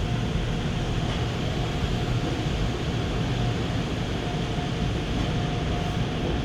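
Steady low rumble with a hiss over it, heard from inside a car's cabin: the car idles in neutral with its climate fan running, with a faint steady whine now and then.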